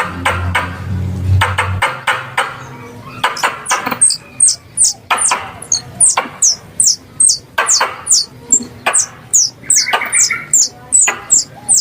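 Squirrel calls played as a hunting lure: rapid sharp chirps, each a click followed by a high falling squeak, repeating about two to three times a second. A low hum underneath stops about two seconds in.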